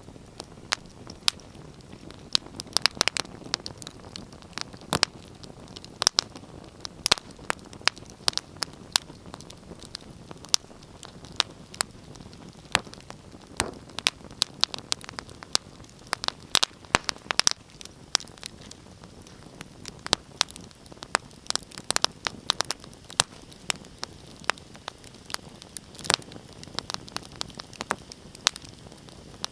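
Wood fire crackling in a fireplace: frequent sharp pops and snaps, irregular and in clusters, over a steady low hiss.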